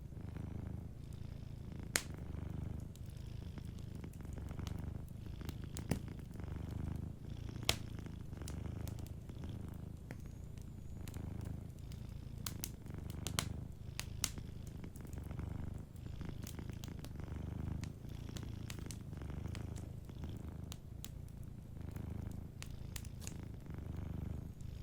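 Domestic cat purring steadily, a low rumble that swells and fades in slow, even pulses with its breathing. It is broken by scattered sharp pops of a wood fire crackling.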